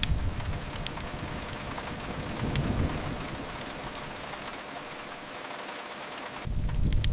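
Steady rain with a deep rumble that fades in the first moments, swells again around three seconds in and returns suddenly near the end. Sharp pops of a crackling wood fire are scattered through it.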